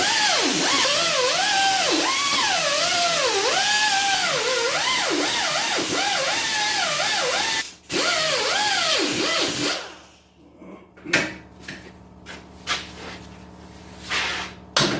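Die grinder cutting through an old exhaust bracket. Its whine dips and recovers over and over as it bogs under load. It cuts out briefly about halfway, runs again, then stops about two-thirds in, followed by a few light metal clanks and knocks.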